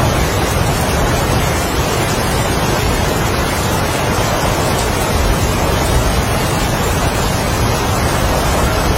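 Strong wind with heavy rain: a loud, steady, dense rush of noise with a heavy low rumble, no distinct drops or gusts standing out.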